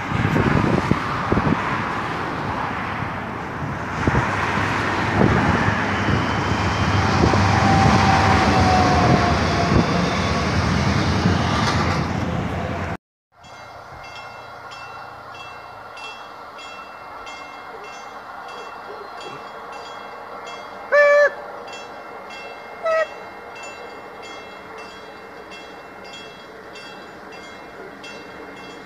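A suburban passenger train passing close by: loud rumble and wheel clatter with a brief squeal. Then, after an abrupt cut, a much quieter steady hum with two short horn toots a couple of seconds apart.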